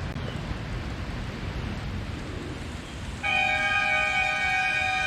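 Wind rumbling on the microphone. About three seconds in, a golf course's lightning-warning siren starts and holds a loud, steady chord of several fixed pitches without rising or falling: the warning that lightning is near.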